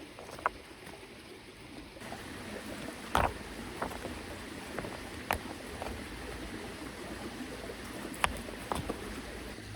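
A small mountain stream running steadily, with scattered sharp knocks and clicks over it, the loudest a little after three seconds and just after eight seconds.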